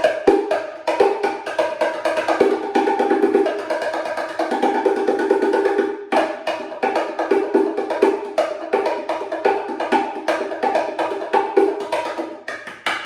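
Cruz Bongo Cajon, a wooden bongo-style box drum, played by hand in a fast, continuous bongo groove. Its high tone and its lower tone alternate, with quick flurries of strokes and a brief break about halfway through.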